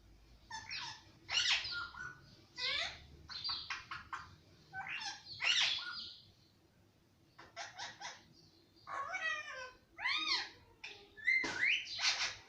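Pet ring-necked parakeet giving a quick string of short, high, chattering calls and word-like squawks, with brief pauses between them.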